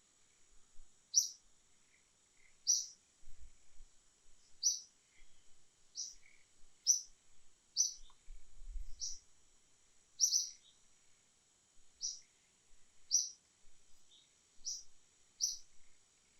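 A bird giving short, high chirps about once a second, over a steady high-pitched insect drone.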